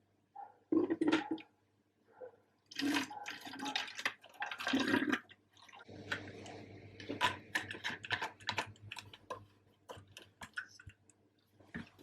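Water splashing and sloshing in short irregular bursts, with scattered small clicks and knocks of kitchen handling.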